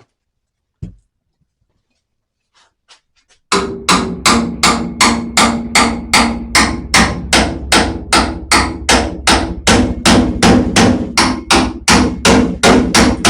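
Hammer blows on a heated sheet-steel repair panel, bending a curve into it. After a single knock about a second in, a steady run of strikes begins a few seconds in, about three a second, each with a short metallic ring.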